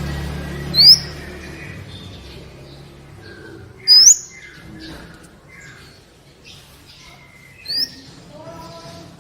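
A sunbird, the bird called 'kolibri' in Indonesia, singing vigorously. Three loud, sharp notes sweep upward, a few seconds apart, with softer twittering chirps between them.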